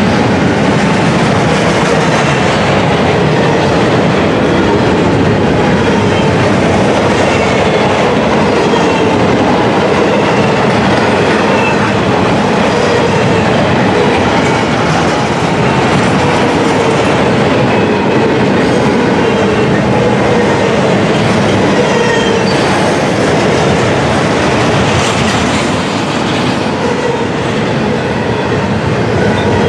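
Double-stack intermodal container well cars rolling past at track level: a steady, loud rumble and rattle of steel wheels on rail, with faint whining tones that come and go.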